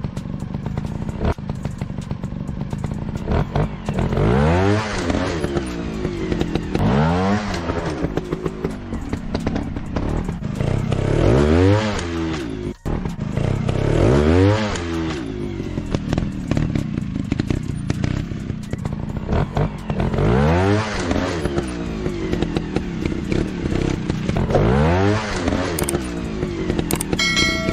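Motorcycle engine revving again and again, each rev rising in pitch and falling back, about every two to three seconds, over a steady low running note.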